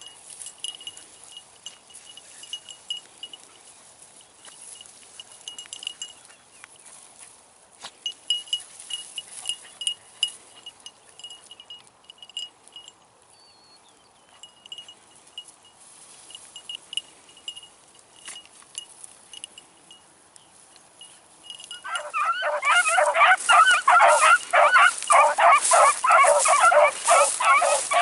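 A faint high tone pulses on and off. Near the end, a pack of beagles suddenly breaks into loud baying, many voices overlapping: hounds giving tongue as they run a rabbit's trail.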